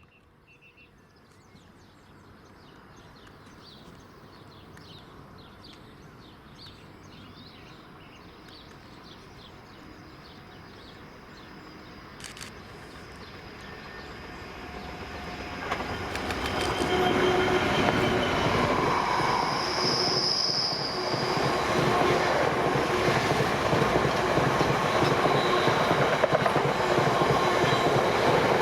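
A train approaching on the main line, faint at first and growing steadily louder, then running close past from about 17 seconds in. Wheels on rail make a steady rush, with thin high tones over it.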